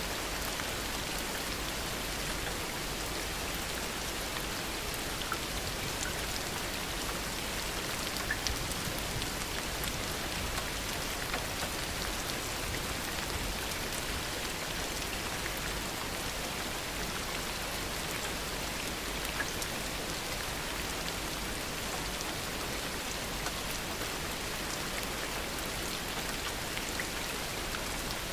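Steady heavy rain falling, with scattered individual drops ticking through the even hiss; no thunder.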